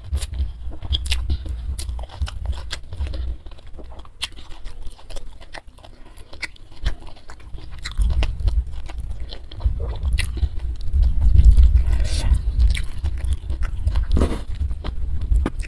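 Close-miked chewing of a hand-fed mouthful of rice and steamed mackerel tuna, with many small mouth clicks throughout.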